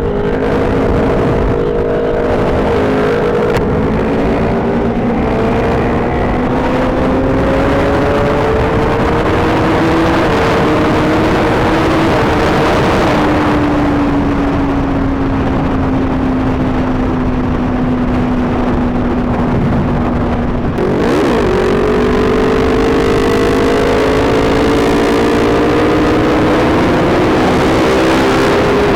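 Sport motorcycle engine running at road speed, with heavy wind noise on the microphone. The engine pitch climbs slowly, then eases off and falls, and after a brief dip about two-thirds of the way through it climbs again.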